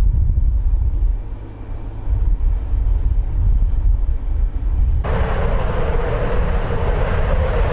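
Low wind rumble on the microphone, then about five seconds in a sudden switch to loud, steady jet-engine noise from a fighter jet.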